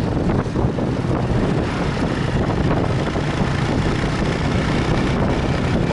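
A motorcycle running steadily on the move, with wind rushing over the microphone.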